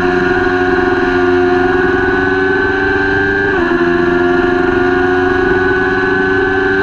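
Kawasaki Ninja 400 parallel-twin engine under full throttle, its pitch climbing slowly as the bike accelerates. About halfway through the pitch drops suddenly with an upshift, then climbs again in the next gear.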